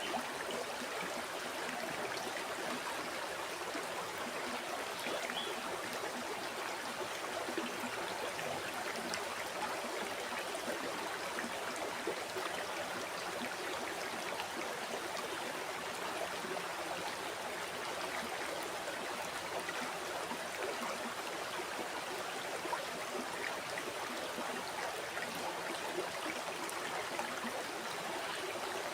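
River water flowing steadily over rocks, a constant rushing with fine trickling and gurgling.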